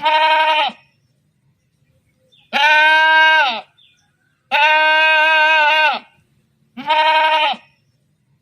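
Four long bleats, each wavering slightly and dropping in pitch as it ends, with short silences between them.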